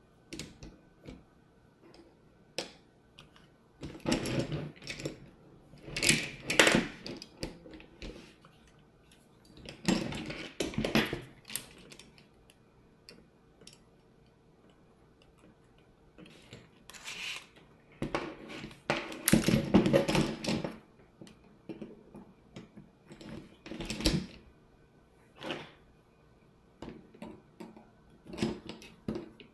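Hand tools and small RC truck parts clicking, clattering and rattling in irregular bursts as the truck is worked on.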